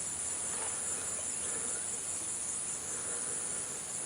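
Steady high-pitched insect chorus, a continuous shrill drone without a break.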